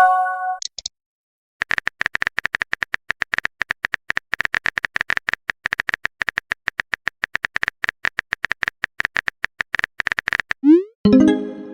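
Phone keyboard typing sound effect: rapid, slightly uneven clicks, many per second, as a message is typed out. Near the end a short rising swoosh and a chime of a message notification sound, with a similar chime at the very start.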